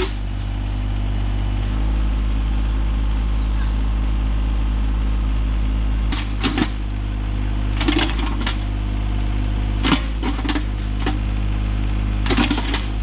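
RK24 compact tractor's engine running steadily while the backhoe works to pull out a boulder, its note shifting slightly about six seconds in. Several short, sharp knocks come over it in the second half.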